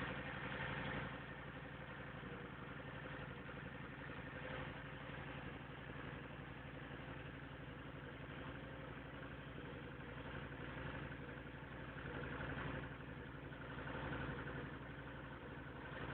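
A vehicle's engine running steadily with an even low hum.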